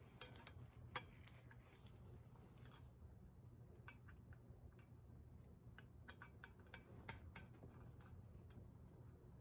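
Near silence: a low room hum with faint, scattered light clicks, one about a second in and a cluster between about six and seven seconds.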